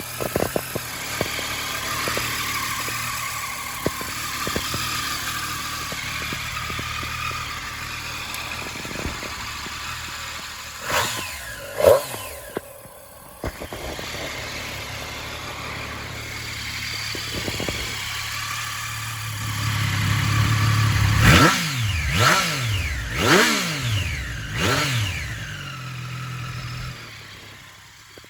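Triumph 765 Street Triple RS three-cylinder engine idling through an Arrow aftermarket exhaust, with short throttle blips: a couple about eleven seconds in, then four more in quick succession in the last third.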